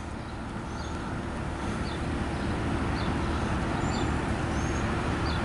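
Diesel locomotives of an empty coal train approaching: a steady low rumble that grows slowly louder, with faint short high chirps about once a second.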